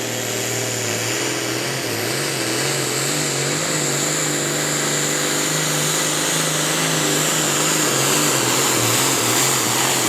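Pulling tractor's engines running hard and steady at high throttle, with a high whine over the engine note, growing gradually louder.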